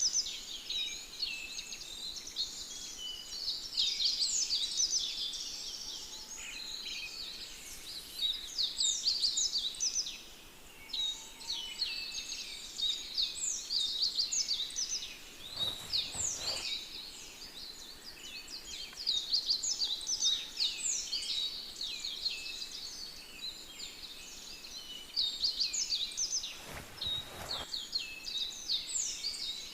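Dense chorus of many small songbirds chirping and trilling continuously, with two brief soft rustles, one in the middle and one near the end.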